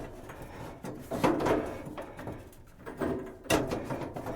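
22 mm copper pipe being bent by hand into a coil: irregular scraping and creaking handling noises, with a sharp knock about three and a half seconds in.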